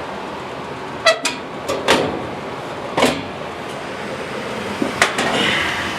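Steady rush of a furnace blower, broken by about half a dozen sharp knocks and clanks a second or so apart as the furnace is handled.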